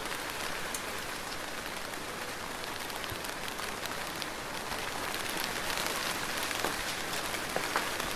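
Steady soft rain falling on a surface, an even hiss with scattered individual drop ticks, the patter getting slightly denser toward the end.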